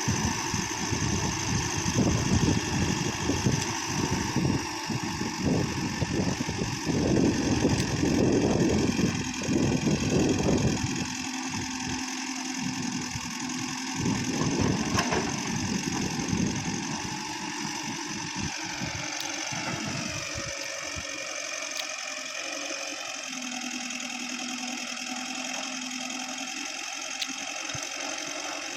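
Diesel engine running, rough and knocking for about the first ten seconds, then settling into a quieter, steadier run. About two-thirds of the way through, a higher whine dips in pitch and comes back up.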